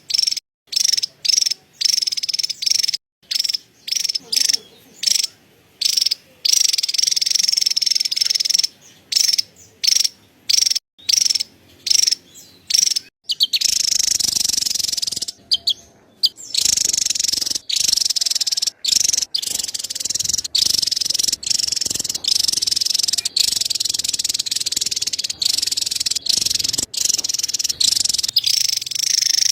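Javan tesia giving its high-pitched chattering call (cerecetan). It comes in short repeated bursts with brief gaps at first, then runs almost unbroken from about halfway on.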